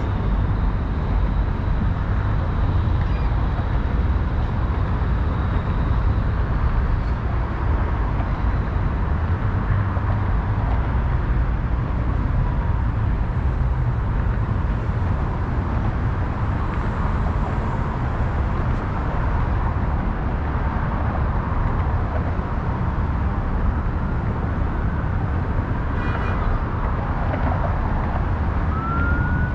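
Steady low rumble of city road traffic, with a siren starting to rise in pitch near the end.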